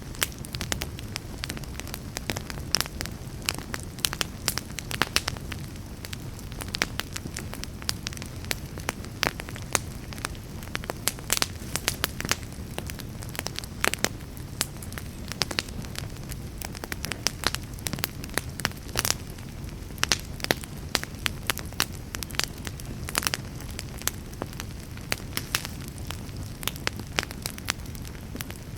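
Wood fire burning in a fireplace, crackling and popping with frequent irregular sharp snaps over a steady low rumble of the flames.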